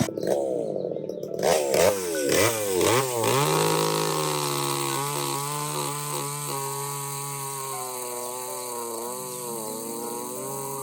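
A small engine revving up and down several times in the first few seconds, then running at a steady speed.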